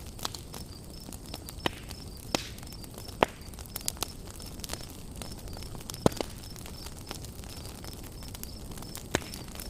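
Wood campfire crackling, with irregular sharp pops over a steady low hiss; the loudest pops come about three and six seconds in. An insect chirps steadily and rapidly in the background.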